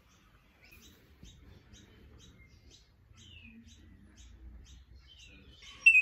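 Birds chirping outside: a quick, regular series of short high notes, about two to three a second, with a few downward-slurred calls among them. Just before the end a loud, steady high tone cuts in.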